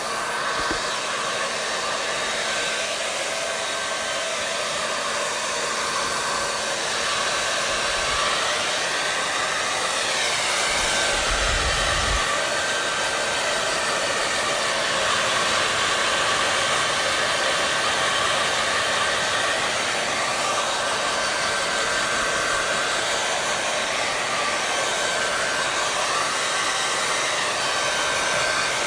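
Hair dryer running steadily: a continuous rushing hiss of blown air with a steady motor hum, its tone sweeping slowly up and down a few times.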